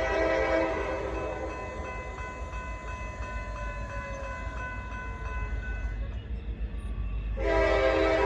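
Norfolk Southern locomotive air horn: a chord blast fading out just after the start, a fainter tone sliding down in pitch in the middle, then a new loud blast about seven seconds in. A steady low rumble of the passing train runs underneath.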